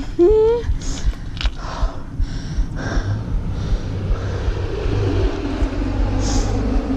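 A small engine runs steadily with a low drone, and wind noise and rattles sound throughout; a brief rising tone comes just after the start.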